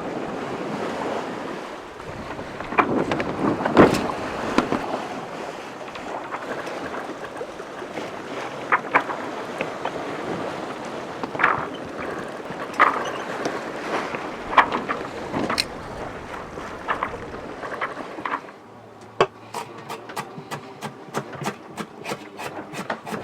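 Wind and sea rushing past a sailboat under way, with scattered knocks and creaks from the boat. About eighteen seconds in it gives way to a quieter, enclosed sound with a low hum and a quick run of sharp, evenly spaced knocks, about three to four a second.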